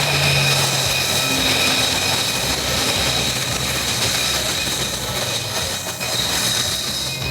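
Pratt & Whitney F135 turbofan of an F-35A Lightning II, a loud steady jet rush with a high whine.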